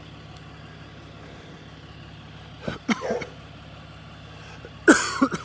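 A vehicle engine idling, a steady low hum, with two brief louder sounds about three and five seconds in.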